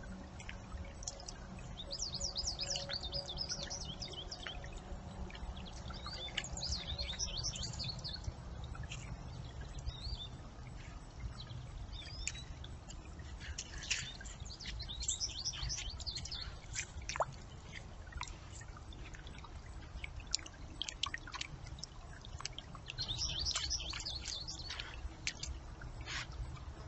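Small birds chirping in several short, high-pitched bouts over a steady low rumble.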